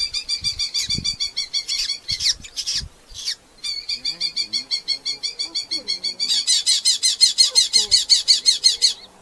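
Red-footed falcon giving rapid chattering series of high 'kew-kew-kew' calls, about eight notes a second. The calls break off briefly after about three seconds, then come back, growing louder over the last few seconds.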